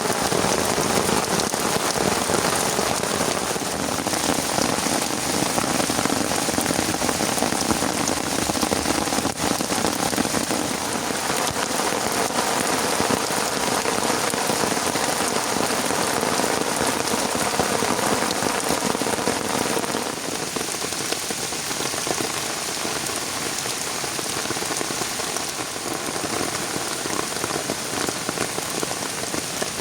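Heavy rain falling steadily, a dense patter of drops hitting surfaces. It eases slightly about two-thirds of the way through.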